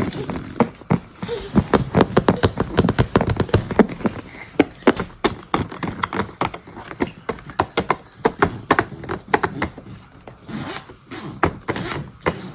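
Toy kitchen kit pieces and packaging being handled and opened: a rapid, irregular run of clicks, taps and scrapes.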